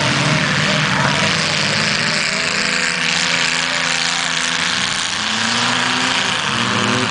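Several heavyweight-class race cars' engines running together on a dirt track, their pitch rising and falling as the drivers work the throttle.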